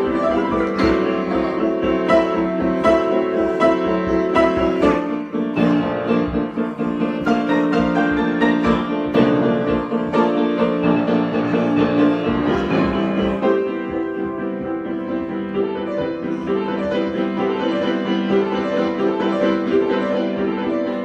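Piano improvisation: many notes played at once, busy and full, settling to a sparser, softer passage about two-thirds of the way through.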